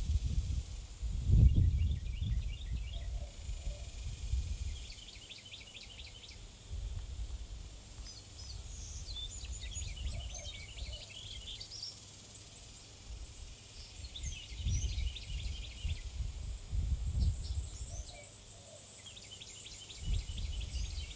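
Small birds chirping and trilling around a backyard feeder: repeated quick runs of high notes, some sharp single chirps. Low rumbling noise swells and fades several times underneath, loudest near the start.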